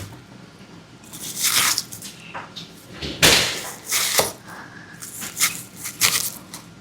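Kitchen handling sounds: a few irregular scrapes and knocks of utensils and dishes, with one sharper knock about three seconds in.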